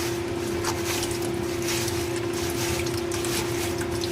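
Water running into a Desert Spring furnace humidifier's reservoir, with small splashes and a steady hum throughout.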